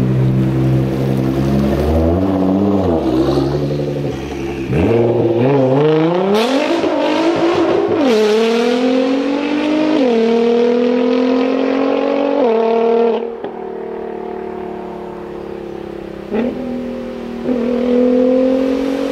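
Nissan R35 GT-R's twin-turbo V6 through a decatted Meisterschaft exhaust, running low with a brief blip, then accelerating hard, its pitch climbing through three quick upshifts. A second car's engine then accelerates through two gear changes.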